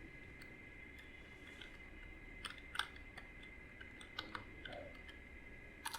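A few faint, scattered computer mouse and keyboard clicks over a quiet background with a steady high whine.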